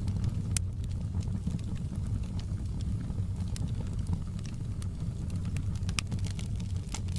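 Wood fire crackling: irregular sharp pops and snaps over a steady low rumble of the flames, with a few pops close together near the end.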